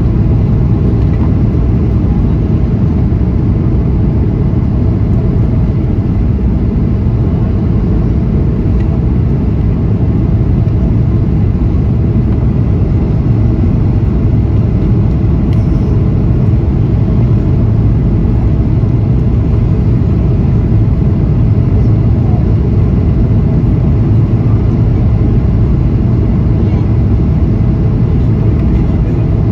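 Boeing 737-800 cabin noise: the steady drone of its CFM56 jet engines and the airflow, heard from inside the passenger cabin. The noise holds level, heavy in the low end.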